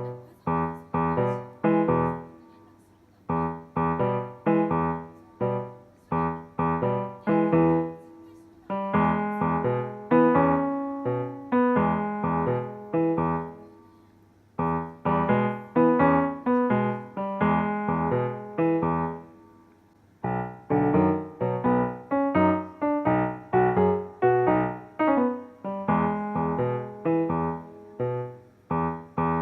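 Background music: a piano tune of short struck notes played in phrases, with brief pauses between phrases.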